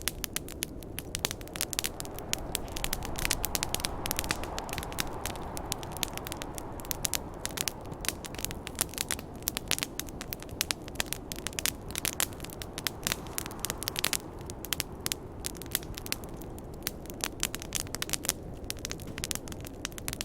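Wood campfire crackling and popping, a dense run of sharp snaps of differing loudness, over a steady rushing hiss of snowstorm wind that swells a little a few seconds in.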